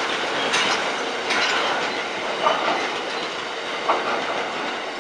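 Tank wagons of a freight train passing at speed, their wheels clattering over the rail joints, with two short squeals partway through. The noise fades slowly as the train goes by.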